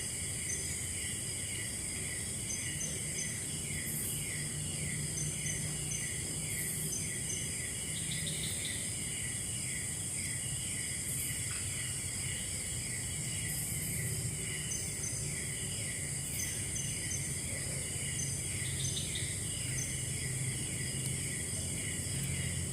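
Tropical forest insect chorus: a steady high-pitched buzz layered with short chirps repeating about twice a second, over a faint low hum.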